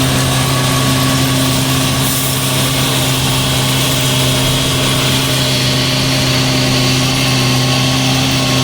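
Diesel engine of a railway ballast regulating machine running steadily, a constant low hum that does not change.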